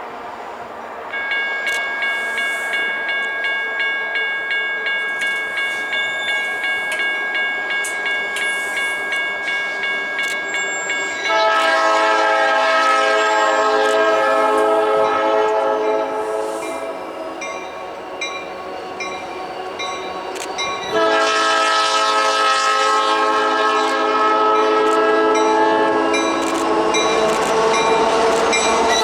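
Railroad grade-crossing bell ringing about twice a second, then a diesel locomotive's multi-chime air horn sounding two long blasts, the second still going at the end, as the train approaches the crossing.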